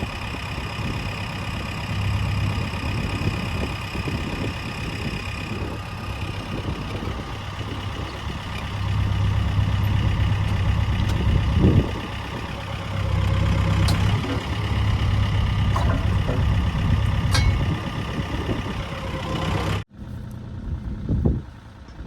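Mini excavator's diesel engine running, getting louder in stretches as it works under load, with a few sharp metallic clicks. Near the end it cuts off abruptly to a quieter engine sound.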